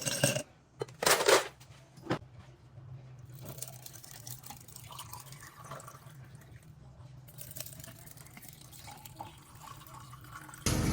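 Mixing a drink in a kitchen: a few sharp clinks and knocks in the first two seconds, then quieter liquid dripping and pouring over a low steady hum. Near the end it cuts suddenly to a louder, steady motor sound.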